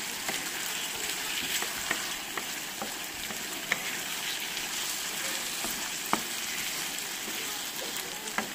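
Calamari and potato cubes sizzling in hot oil in a frying pan while a wooden spatula stirs them. A few sharp clicks stand out from the steady sizzle, the strongest a little under four seconds in and about six seconds in.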